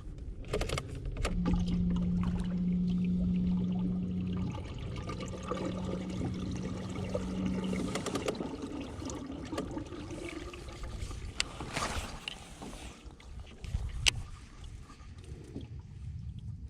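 Water trickling and sloshing against a kayak, with scattered clicks and knocks of handling. A steady low hum runs for about three seconds from a second in, breaks briefly, then runs three seconds more, and a sharp click comes near the end.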